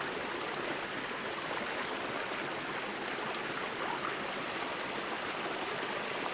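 Flowing creek water running steadily.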